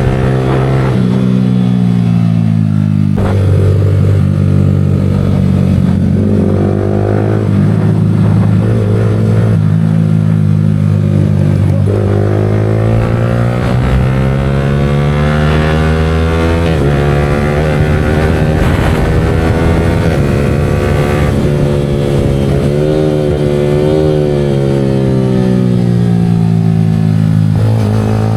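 Yamaha R15 V4M's single-cylinder engine breathing through a Leo Vince aftermarket exhaust, rising in pitch under acceleration and easing off again several times, with a few abrupt drops in pitch between the climbs.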